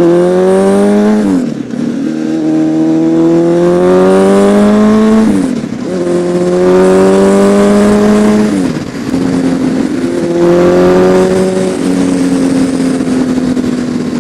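Honda CBR1000RR Fireblade's inline-four engine accelerating hard through the gears. Its pitch climbs and then drops sharply at each of about four upshifts, then runs steady and eases off slightly near the end, with wind rushing past.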